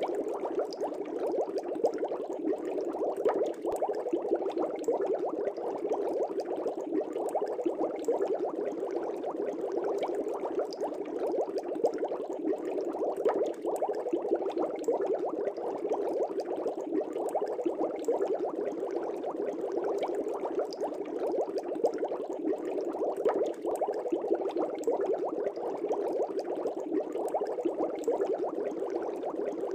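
Aquarium air bubbles rising and bursting in a fish tank: a steady, dense bubbling scattered with many small pops.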